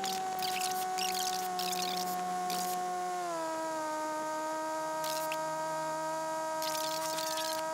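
Cessna 152 engine running during taxi, heard through the cockpit intercom as a steady whining hum with overtones that drops in pitch about three seconds in as the power comes back. Patches of hiss come and go over it.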